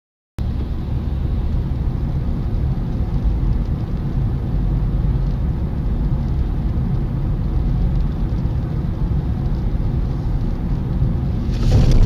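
Steady low rumble of a car driving, engine and road noise, cutting in suddenly after a moment of silence. Near the end it turns louder, with several sharp knocks.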